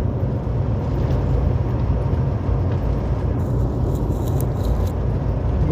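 Steady low drone of a loaded semi-truck's engine and tyres at highway speed, heard inside the cab, with the truck holding speed on cruise control.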